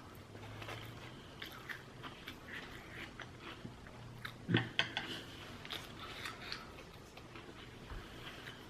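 A person chewing sushi close to the microphone: soft, wet mouth clicks and crackles, with one louder knock about halfway through.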